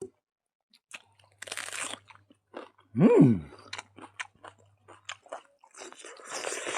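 Close-up crunching and chewing of food, in irregular crackly bites. About three seconds in comes a louder, brief sound that rises and then falls in pitch.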